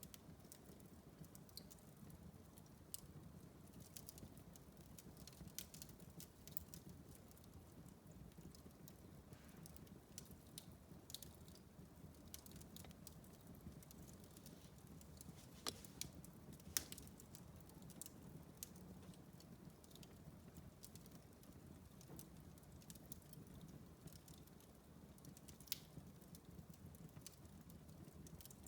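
Wood fire crackling in a fireplace: irregular sharp pops and snaps over a faint, steady low hum, with a few louder pops about halfway through and again near the end.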